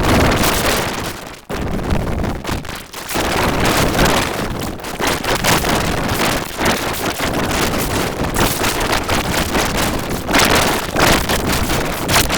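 Loud, harsh, noise-like audio effect filling every pitch range, with no words or tune to be made out. It drops out briefly about a second and a half in and again about three seconds in.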